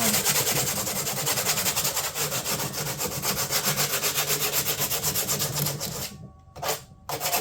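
Sandpaper rubbing quickly back and forth over the cut edges of a cured fiberglass panel, a 'safety sand' that rounds off the sharp edges and prickly strands. The strokes stop about six seconds in, with one brief stroke in the gap, then start again just before the end.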